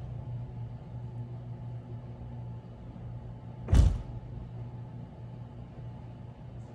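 A steady low mechanical hum, like a running motor, with one loud thump a little past the middle.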